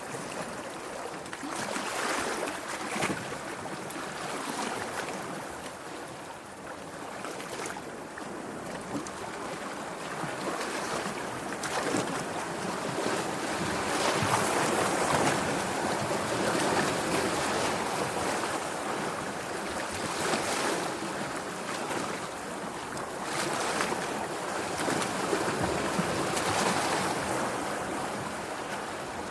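Sea waves washing and breaking, the rushing surf swelling and falling back every few seconds.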